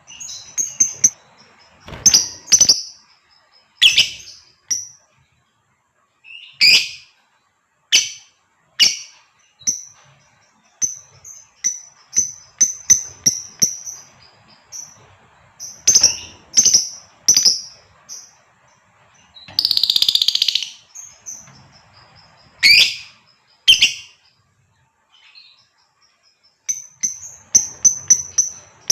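Female lovebird calling: quick runs of short, high chirps with louder sharp shrieks between them, and one harsh rasping screech about twenty seconds in.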